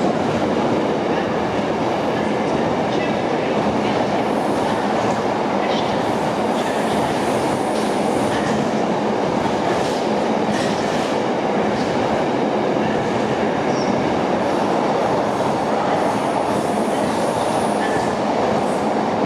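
A long freight train rolling steadily past at speed, its wagons' wheels clattering over the rail joints, with a faint high wheel squeal now and then.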